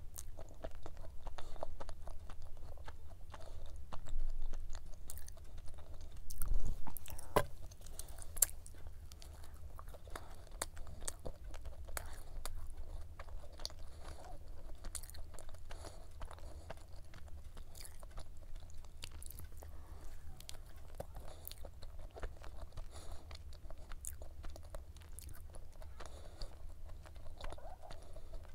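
Close-up chewing of a flaky croissant-dough cube pie with black sesame cream, with many small crisp crackles from the pastry's layered crust. The chewing is loudest about four to seven seconds in.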